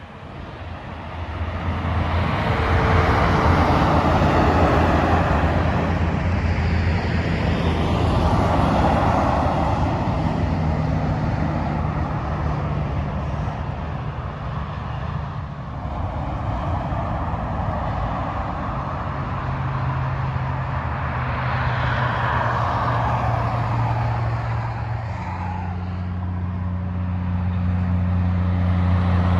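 Freeway traffic passing at speed: tyre noise swells and fades as several vehicles go by, over the low steady drone of heavy diesel truck engines, which grows louder near the end.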